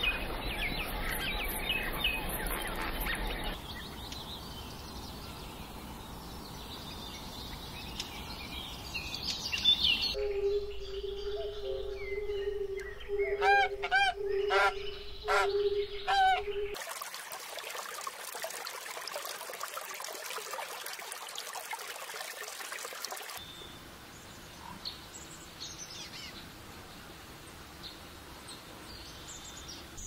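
Birds calling in several short segments that change abruptly every few seconds. In the middle, one bird gives a string of short repeated calls.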